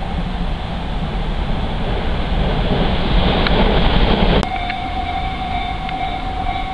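Echizen Railway train running along the track, heard from on board: a steady rumble that grows louder, then cuts off abruptly about four and a half seconds in. A steady high tone follows.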